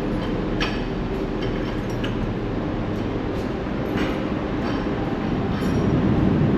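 Steady low rumble of a ferry's engines and machinery, with a few light clanks scattered through it, growing slightly louder near the end.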